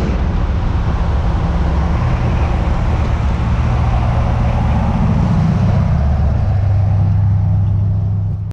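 Car engine running while driving, over road noise. The engine note settles lower about six to seven seconds in.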